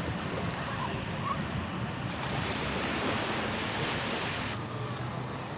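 Sea waves washing, with wind noise on the microphone. The higher hiss drops away abruptly about a second before the end.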